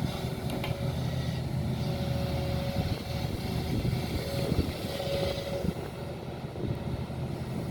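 Heavy diesel engine running steadily, with a steady higher whine over the low engine note.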